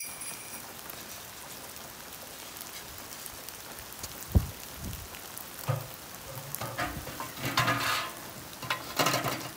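Steady hiss of rain falling, with a sharp knock about four and a half seconds in and a few clanks in the second half as the pit barrel cooker and charcoal chimney are handled.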